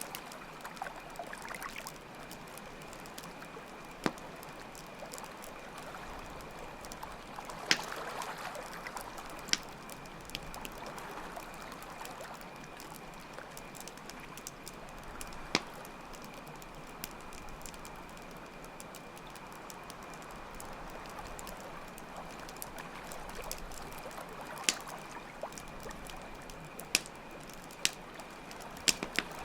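Campfire crackling, with sharp pops at irregular moments, over steadily running water and a constant high cricket chirring.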